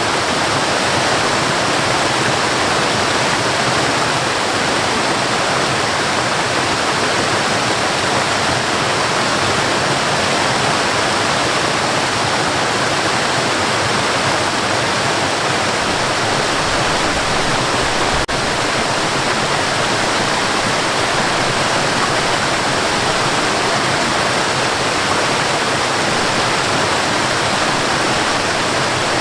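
Waterfall rushing steadily, an even roar of falling water with no change in level. One faint click about two-thirds of the way through.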